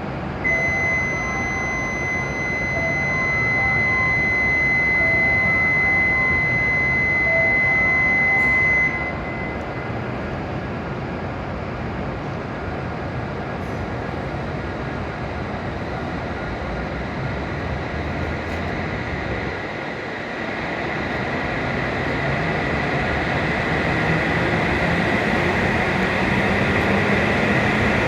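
Shinkansen platform sounds around an E7-series train: a steady high-pitched electronic signal tone with a repeating lower chime pattern for about nine seconds, then it stops. The train's steady machinery hum follows, growing louder with a slowly rising motor tone in the last few seconds as the train begins to move off.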